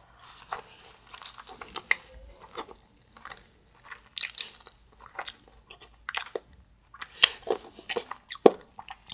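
Biting into and chewing a rice-cake-coated ice cream ball (spicy chapssal-tteok ice), with many short mouth clicks and smacks.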